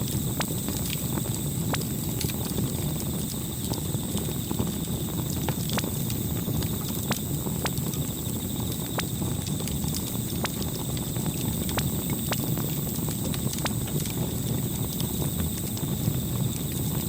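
Campfire crackling: irregular sharp pops and snaps over a steady low rumble of burning wood, with a thin steady high tone behind it.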